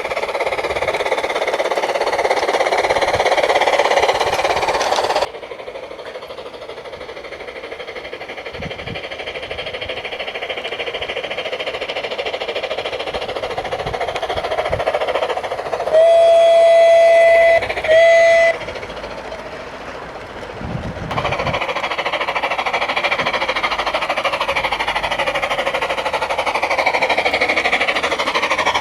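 Märklin Gauge 1 Gt2 4/4 Mallet tank locomotive running with its onboard steam sound playing: a steady chuffing-and-running noise that drops quieter about five seconds in and comes back louder near the end. Its whistle sounds one long blast, then a short one, just past halfway.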